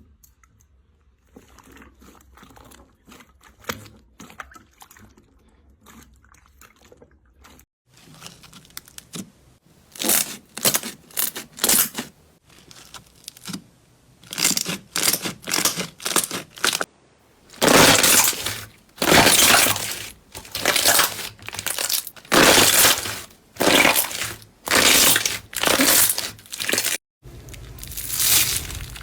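Crunchy slime being squeezed and pressed, giving crackling, crunching bursts. It is faint at first and becomes loud from about ten seconds in, with a press roughly once a second.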